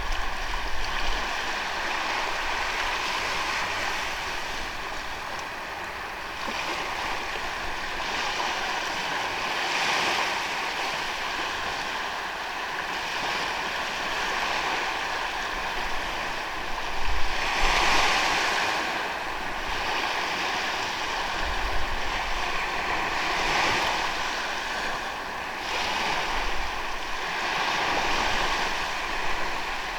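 Ocean waves breaking and washing up on a sandy beach, the surf swelling every few seconds, with one louder wave about two thirds of the way through. Low gusts of wind rumble on the microphone now and then.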